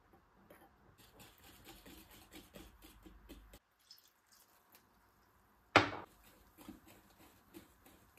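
Handling sounds: a run of light clicks and taps, then one sharp knock a little under six seconds in, followed by a few softer taps.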